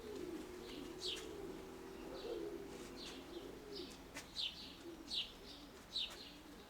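Domestic pigeons cooing, with short high chirps from a small bird repeating about once a second.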